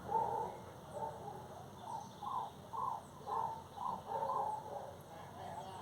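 An animal giving a quick series of short calls, about two to three a second, growing fainter near the end.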